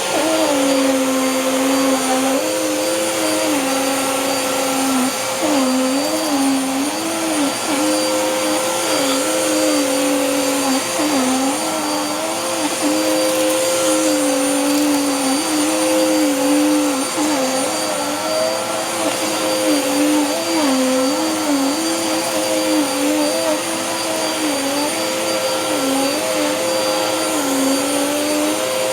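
Dirt Devil Power Max Rewind upright vacuum running steadily while vacuuming a dirty rug, a steady motor whine over a lower hum that wavers up and down every second or so.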